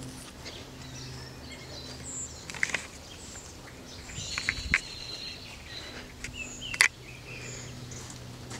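Birds chirping and calling now and then over a faint steady hum, with a few sharp clicks; the loudest is a sharp click about seven seconds in.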